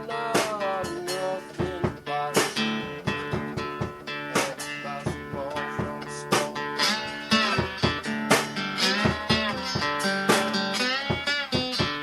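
Guitar music: plucked notes, several of them bent or slid in pitch, in a blues style.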